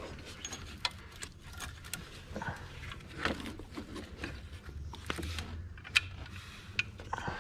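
Metal parts and hand tools clicking and clinking in an irregular string while a bracket and bolt are fitted for a replacement alternator in a car's engine bay, with a sharp knock about six seconds in.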